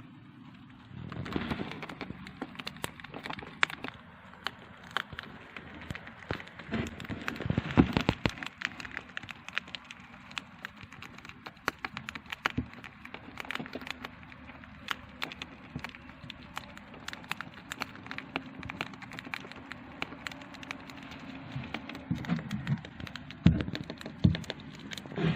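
Hamster nibbling and cracking dry seeds: a rapid, irregular run of small sharp crunching clicks starting about a second in, with bursts of louder crunches around eight seconds in and near the end.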